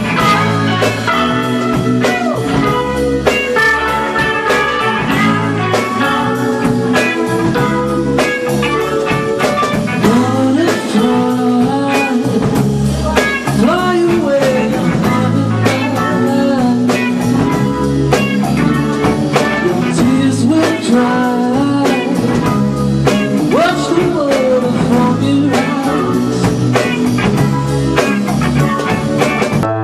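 Blues-rock song with singing, guitar and a drum kit keeping a steady beat.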